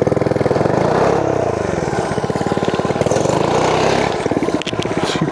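Small gas mini bike engines running under throttle while riding off-road. Their pitch rises and falls, and a second engine's note crosses the first as the two bikes go at different speeds.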